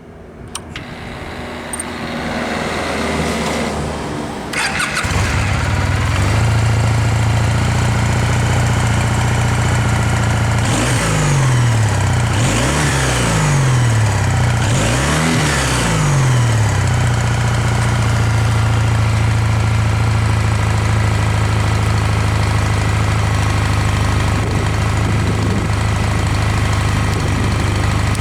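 Kawasaki W800 air-cooled parallel-twin engine on its stock exhaust being started and settling into a steady idle after about five seconds. In the middle it is revved up and back down three times, then returns to idle.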